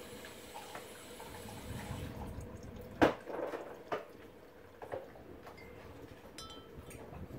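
Rain dripping, with one sharp tap about three seconds in and a few fainter taps over the next two seconds.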